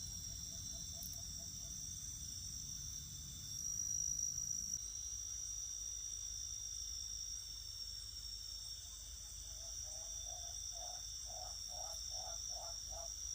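Night-time chorus of crickets and other insects, a steady high-pitched trilling. Near the end, a lower animal call repeats about eight times in quick succession.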